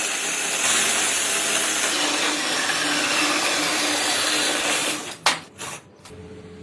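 A power tool running steadily for about five seconds, then stopping, followed by a few sharp clicks.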